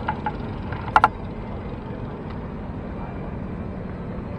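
Wind and road noise from riding a bicycle, a steady low rumble, with a pair of short, sharp metallic-sounding clicks about a second in.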